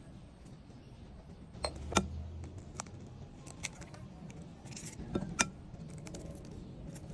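Kitchen utensils clinking and tapping against dishes, with about half a dozen sharp, separate clinks, two of them a little louder, around two seconds in and after five seconds.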